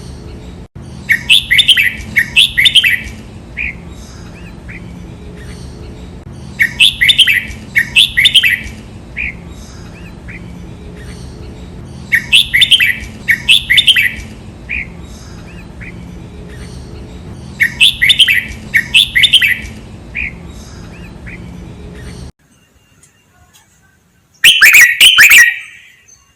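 Red-whiskered bulbul singing its song phrase, a quick double burst of chirpy notes repeated four times about every five and a half seconds over a steady low hum. Near the end the hum cuts out and one louder, denser burst of calls follows.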